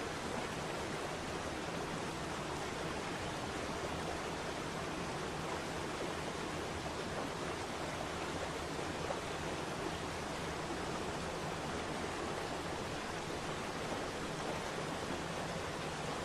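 Waterfall: falling water rushing steadily, an even hiss with no breaks.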